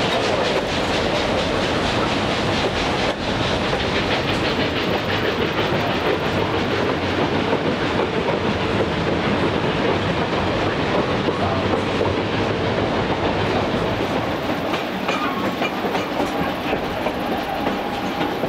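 Durango and Silverton narrow-gauge train cars rolling along the track, heard from on board: a steady rumble and rattle of wheels over the rails with clickety-clack. A faint thin whine joins near the end.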